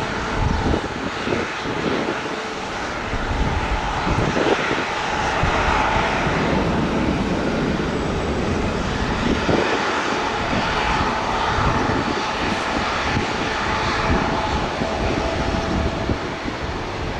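Jet engine noise from an arriving Boeing 747-8's four GEnx turbofans: a steady, loud rush with a faint whine running through it.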